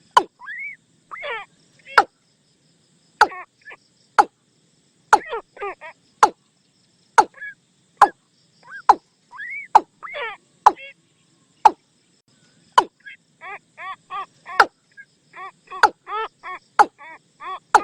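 Watercock calls played as a decoy lure. Sharp clicking notes come at irregular intervals between short croaking calls that rise and fall in pitch. From about 13 seconds in the notes speed up into a rapid repeated series.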